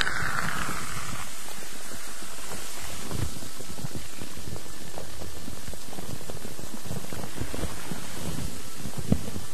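Steady rain-like white noise, a continuous hiss dotted with many small crackles and pops, with one sharper click near the end.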